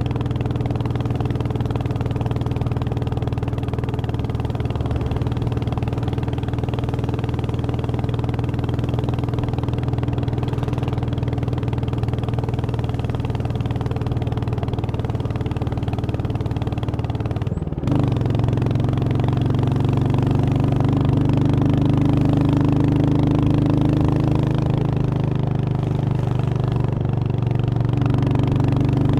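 Royal Enfield Hunter 350's single-cylinder engine running steadily while riding. About eighteen seconds in, the engine note dips briefly and then picks up louder, as the throttle opens again.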